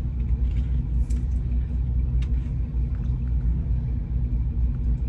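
Steady low rumble of a car engine and road noise at low speed, with a couple of faint clicks.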